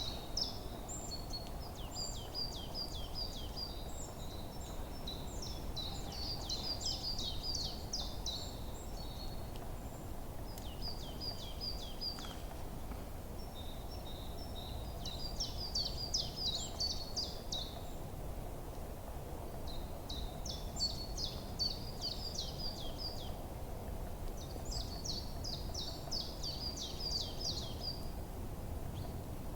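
Birds singing, with short phrases of quick, high, down-sweeping notes repeated every few seconds over a steady low background rush.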